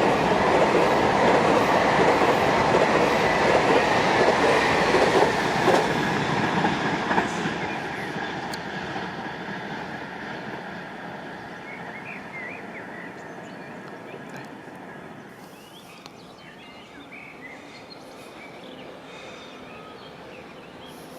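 A train running past on the line, loud at first and fading away from about six seconds in until it is gone by the second half. Birds chirp faintly as it dies away.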